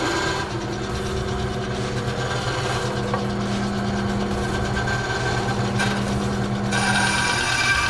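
Electric woodworking saw running steadily while cutting a pine 2x4. The sound brightens about seven seconds in.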